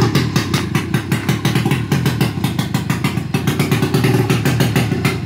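800cc two-stroke snowmobile engine running loud, a rapid, uneven crackle of firing strokes.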